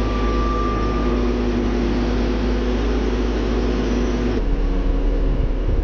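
Heavy machine engine running steadily at a constant pitch with a deep rumble; about four and a half seconds in the sound changes abruptly to a slightly lower, similar engine drone.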